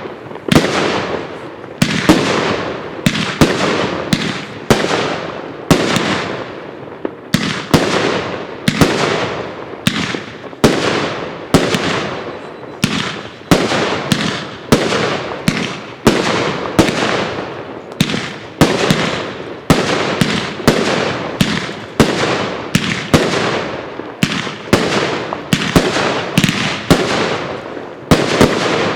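A 'Crackling Chemicals' consumer fireworks cake firing shot after shot, about one a second. Each sharp bang is followed by a short fading crackle, and the shots stop just before the end.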